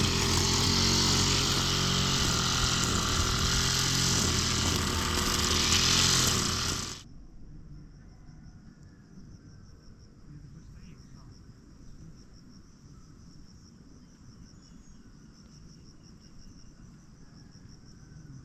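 A steady engine under heavy wind rush, as from a motorcycle being ridden, which cuts off abruptly about seven seconds in. After it comes a quiet, steady, pulsing high trill of insects, typical of crickets.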